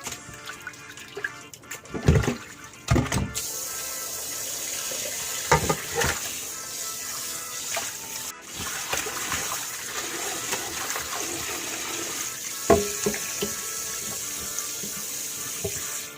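Water running steadily from a tap into a sink, with a few clunks of things being handled. The flow starts about three seconds in and breaks off briefly about halfway.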